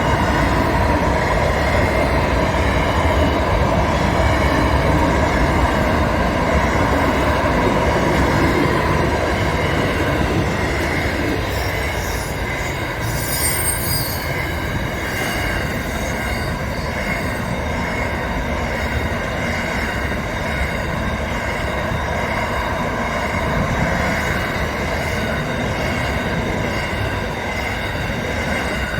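A train running on the rails: a low rumble with steady whining tones over it, fading slightly after about ten seconds. A brief high-pitched sound comes about 13 seconds in.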